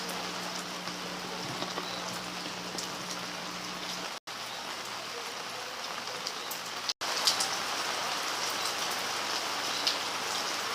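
Rain falling steadily in a storm: an even, dense hiss with scattered drops ticking.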